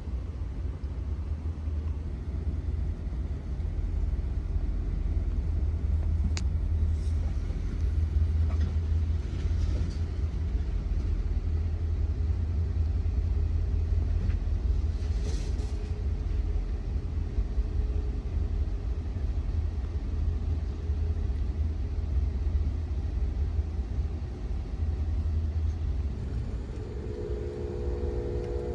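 Steady low rumble of a moving passenger train, the Amtrak Auto Train running at speed, with a faint click about six seconds in and a few faint steady tones near the end.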